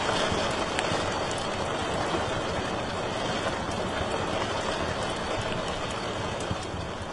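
Wood fire in a fireplace crackling, with scattered sharp pops over a steady hiss and rumble, slowly fading out near the end.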